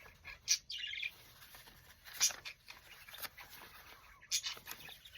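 Birds chirping in the background: short high chirps about once a second, with a slightly longer call just before the one-second mark.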